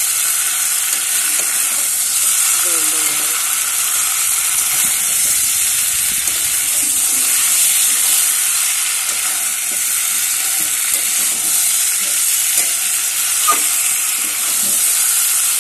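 Fish pieces, potatoes and spice paste sizzling in oil in a kadai as a spatula stirs and scrapes them against the pan: a steady frying hiss with scattered scrapes and a sharp tick near the end. This is the kasha stage, the masala and fish being fried down together in the oil.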